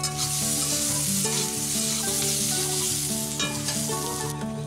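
Potato chunks and onions sizzling as they fry in oil in a black wok, stirred with a spatula. The sizzle cuts off sharply near the end.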